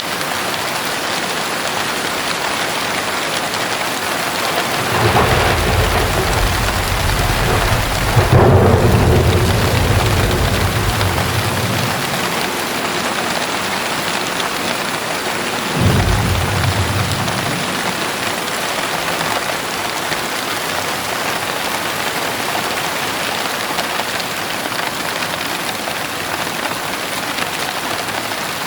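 Steady rain falling, with thunder: a rumble builds about five seconds in, peaks in a louder crack near eight seconds and rolls on for a few seconds, then a second, shorter thunderclap comes a little past halfway.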